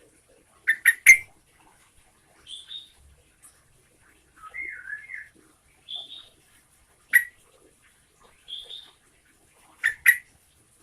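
Sooty-headed bulbul (trucukan) singing: short whistled phrases repeated every couple of seconds, a lower warbling phrase about halfway, and louder sharp notes in quick pairs or triplets about a second in, once in the middle, and near the end.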